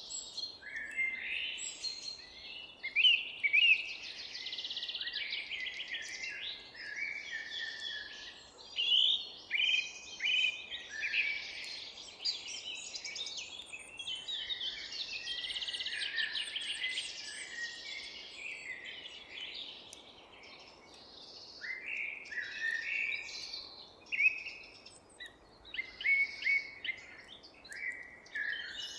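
Several songbirds chirping and singing at once, a dense chorus of overlapping short calls and trills, over a faint steady background hiss.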